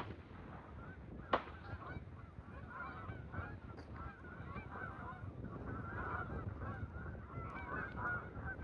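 A flock of wild geese honking, many short calls overlapping, over the low rumble of strong wind on the microphone. There is a single sharp crack about a second in.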